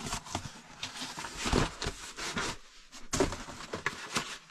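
Rustling and light knocks of parts being handled, in irregular bursts.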